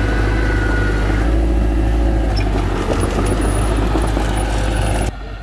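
Heavy machinery engine running with a steady low rumble. About five seconds in, the sound drops abruptly to a quieter engine noise.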